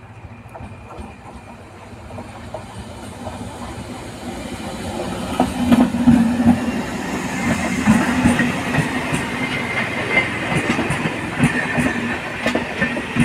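An electric MEMU passenger train approaching and passing close by. A rumble grows over the first few seconds, then becomes a loud, rapid clatter of wheels over rail joints as the coaches go past, with a steady low hum and a higher whine underneath.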